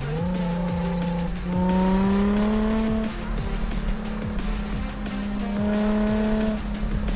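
Nissan 350Z's 3.5-litre V6 exhaust under acceleration, its pitch climbing, breaking briefly about a second and a half in, then climbing again and holding steady. Background music plays along with it.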